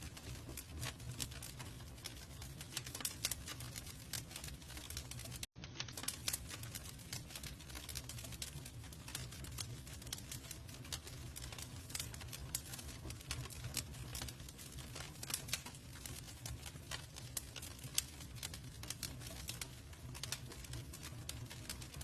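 Campfire burning: wood crackling and popping in quick, irregular snaps over a low steady rumble of the flames. The sound cuts out for an instant about five and a half seconds in.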